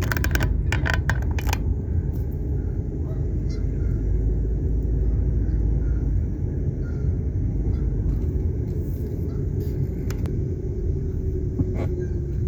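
A car driving slowly, with a steady low engine and road rumble inside the cabin. A short run of sharp clicking sounds comes in the first second and a half.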